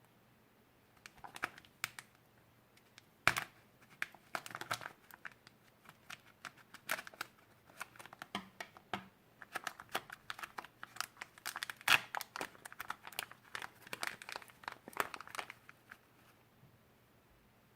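Crinkling and crackling from hands working slime-making materials: many quick, irregular crackles that start about a second in and stop shortly before the end.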